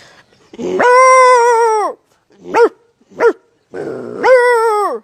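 A person imitating a big dog's bark with their voice: two long drawn-out barks, each falling in pitch at the end, with two short sharp yelps between them.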